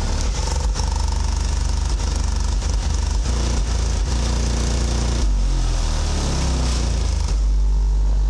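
Car audio system playing heavy bass through subwoofers at high volume, with deep held bass notes that change pitch in steps.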